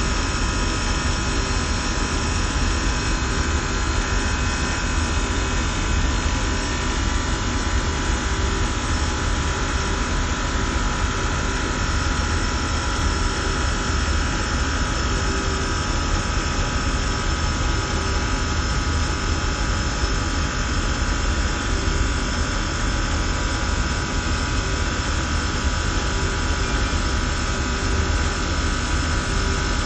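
Systemair chiller and fan-coil HVAC machinery running steadily: a continuous loud roar with a low rumble and several steady tones.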